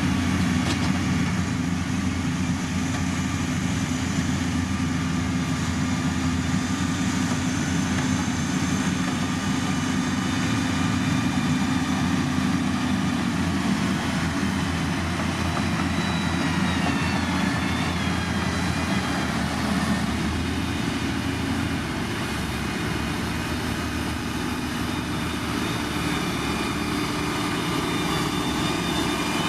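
Heavy diesel construction machinery running steadily, with a deep engine drone and a faint falling whine about halfway through.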